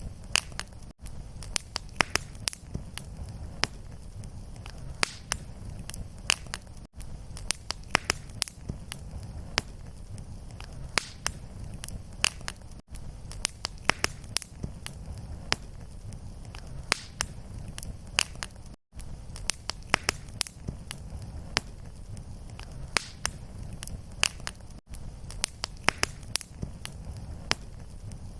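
Fireplace fire crackling: frequent sharp pops and crackles over a steady low rumble of flames. The sound drops out for a split second about every six seconds.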